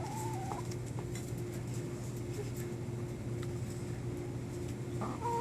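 Hens giving a short high call at the start and another held call near the end, over a steady low hum and a few faint taps.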